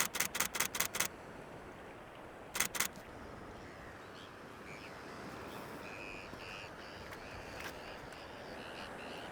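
Camera shutter firing in rapid bursts, about seven frames a second: one burst ends about a second in, and a short burst follows near three seconds. From about four and a half seconds on, Bonaparte's gulls give short, high, repeated calls.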